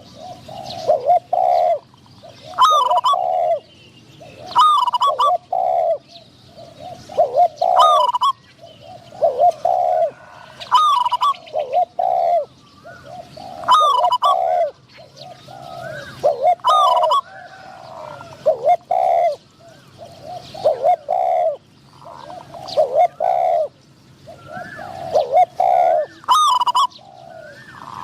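Spotted doves cooing in repeated low phrases, one every second or two, with higher, sharper chirping calls recurring between them about every two seconds.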